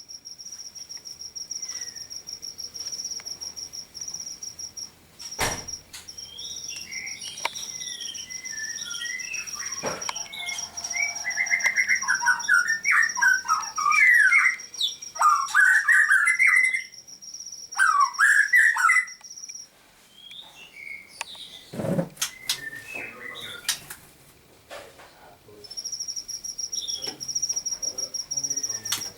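Caged songbirds singing and chirping. Loud, varied whistled phrases come in the middle, over a steady high-pitched trill, with a couple of sharp knocks.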